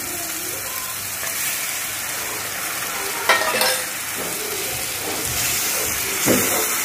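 Onion and spice paste for matar paneer frying in hot oil in a steel kadhai, with a steady sizzle while a steel ladle stirs it. The ladle clinks against the pan about halfway through and again near the end.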